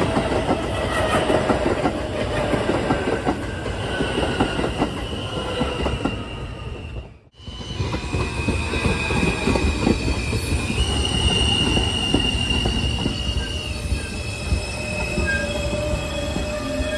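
New York City Subway M train running on the rails: a steady rumble with clicking over rail joints and high-pitched wheel squeal whose pitch shifts in steps. There is a sudden brief dropout about seven seconds in.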